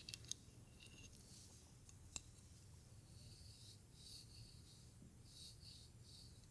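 Soft scratching strokes of a tool through hair, several in a row in the second half. A few light clicks come at the start, and one sharp click about two seconds in.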